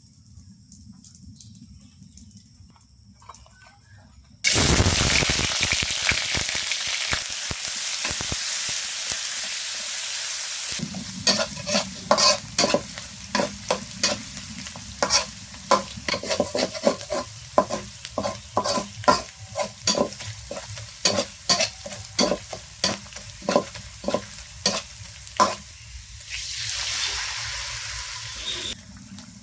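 Food hitting hot oil in a pan with a sudden loud sizzle about four seconds in. From about eleven seconds, a rapid series of scrapes and knocks from a spatula stirring the pan goes on over continued frying. Near the end the sizzle grows loud again.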